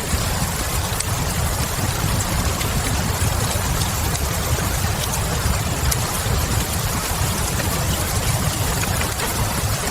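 Steady rain with a low rumble beneath it, and a few small crackles of a wood fire scattered through.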